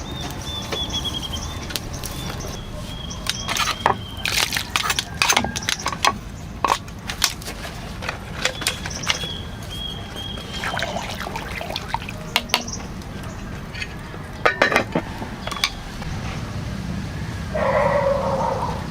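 A series of sharp knocks and clicks, with thin high bird chirps in between. Near the end a dog gives two short barks.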